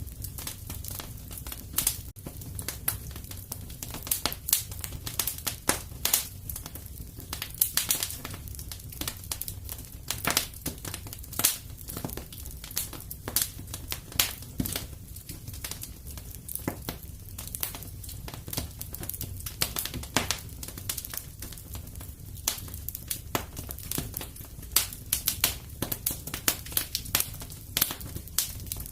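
Wood fire crackling in a stone fireplace: irregular sharp pops and snaps, several a second, over a low steady rumble of the flames.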